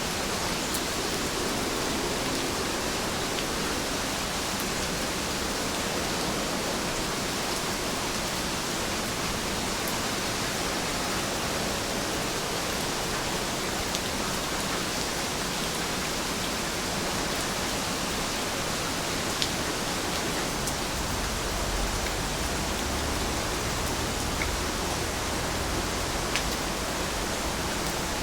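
Steady rainfall: an even hiss of falling rain with a few faint drop ticks. A low rumble joins about two-thirds of the way in.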